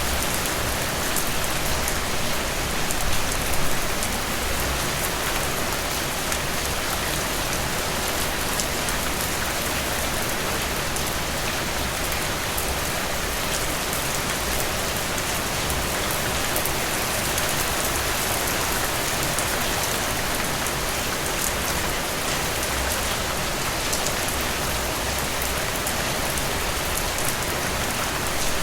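Heavy rain falling steadily and evenly, a dense hiss with many fine drop patters hitting a surface.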